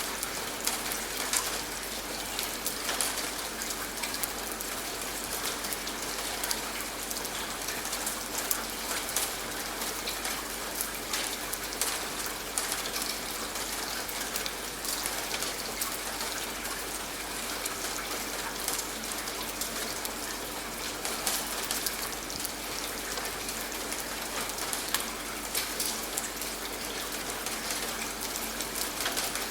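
Steady rain, a dense hiss with many close raindrops heard as sharp ticks.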